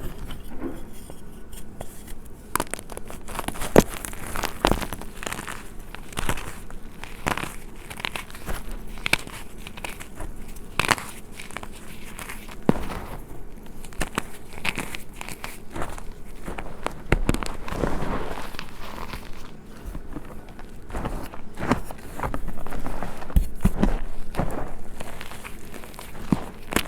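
Blocks of gym chalk crushed by hand, crunching and crumbling with many sharp crackles, with a denser, louder stretch of crushing toward the end.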